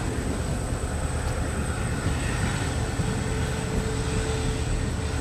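Passenger train running, heard from on board: a steady low rumble with a faint steady hum over it.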